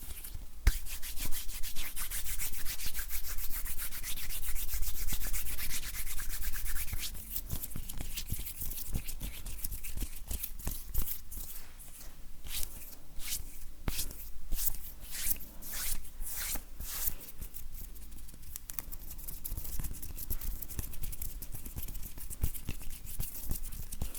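Dry bare hands rubbing together, the skin rustling: a continuous rubbing for the first several seconds, then a run of short separate strokes, then softer rubbing near the end.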